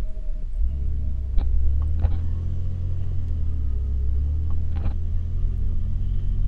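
Toyota 4Runner engine running under load off-road, a deep rumble whose pitch dips and rises again in the middle, with a few sharp knocks.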